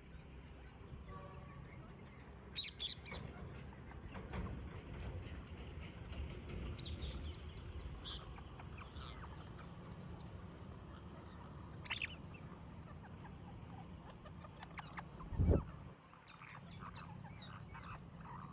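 Parrots giving short, sharp squawks and chirps here and there, with a few clustered around three seconds in and twelve seconds in, over a steady low rumble. One loud thump about fifteen seconds in.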